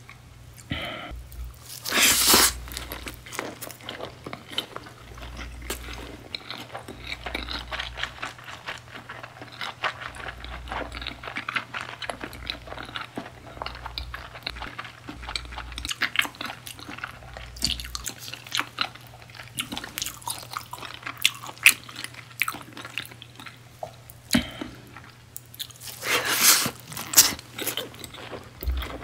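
Close-miked chewing of beef tartare and sea urchin (uni) nigiri sushi: wet, sticky mouth sounds with many small clicks. There are two louder bursts, about two seconds in and near the end.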